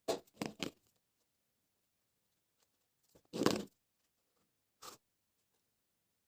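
Smartwatch packaging being handled and opened: three quick scraping rustles, then a longer, louder tearing scrape about three and a half seconds in, and a short one near five seconds.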